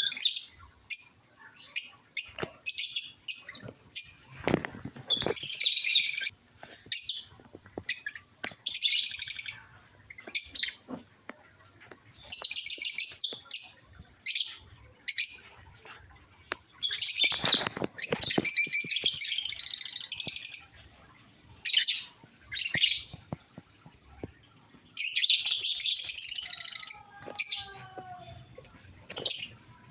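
Pet African lovebirds and cockatiels chattering, in repeated bursts of shrill, high-pitched chirps with short gaps between.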